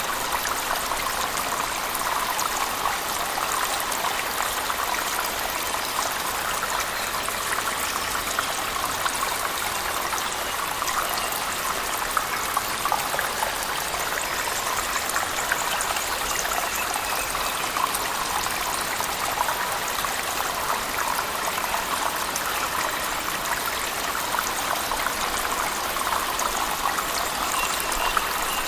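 Steady splashing of a cave waterfall mixed with heavy rain: an even rush of falling water with fine spattering throughout.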